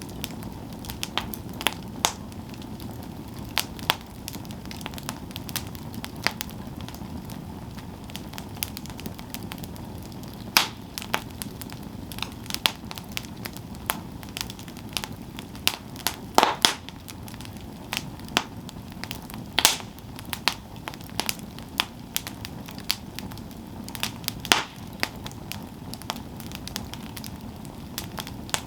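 Campfire burning, with a steady low rush of flames and irregular sharp crackles and pops of the wood, a few louder snaps about halfway through.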